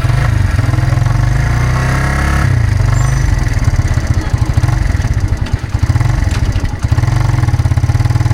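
Vehicle engine running with a steady low rumble, heard from on board while riding, with brief dips in level about two thirds of the way through.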